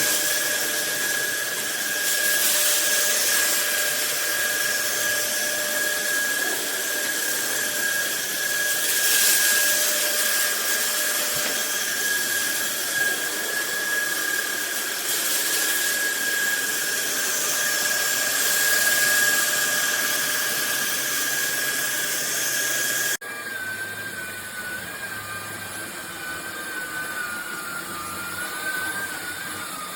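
Cordless stick vacuum's motor running with a steady high whine over a loud rush of air. About three-quarters of the way through, the sound drops suddenly to a quieter run whose whine wavers in pitch.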